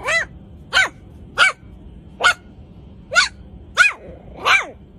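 A dog barking repeatedly: seven short barks at an even pace, about two-thirds of a second apart.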